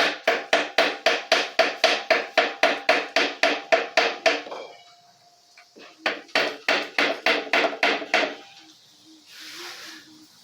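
Rapid, even hammer blows, about four or five a second, on something that rings with a steady metallic tone. They come in two runs, broken by a pause of about a second and a half near the middle.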